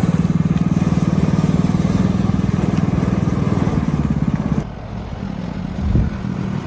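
Vehicle engine running with a fast, even pulsing throb, which drops off suddenly about four and a half seconds in, leaving a quieter rumble.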